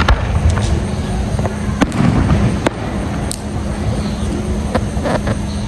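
Fireworks going off: half a dozen sharp, separate bangs and pops spread across a few seconds, over a steady low rumble.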